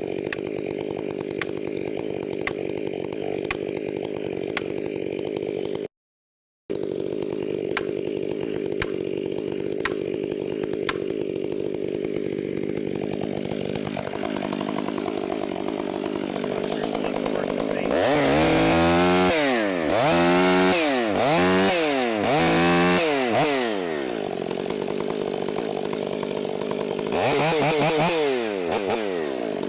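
Two-stroke chainsaw running at a steady speed, then revved up and down several times in quick succession from about two-thirds of the way in, and revved once more near the end. The sound breaks off for a split second early on.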